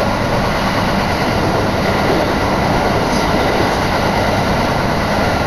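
Iwate Galaxy Railway train running at speed: a steady rush of wheel and track noise, with wind blowing through the open window onto the microphone.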